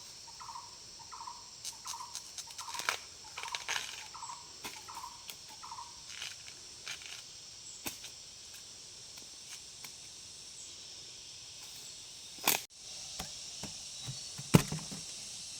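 Outdoor insect drone, high and steady, with a short rising-and-falling call repeating about twice a second for the first six seconds. Scattered light clicks and knocks run through it, with two sharp knocks near the end.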